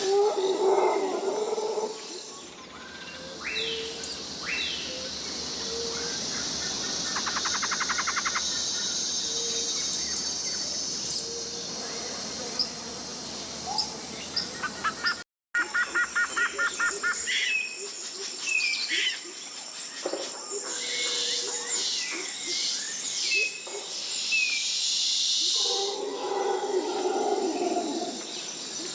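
Tropical rainforest ambience: a steady high insect buzz under many bird calls, with short whistled notes and a quick trill. A deep animal roaring call rises at the start and again near the end, and the sound cuts out briefly about halfway through.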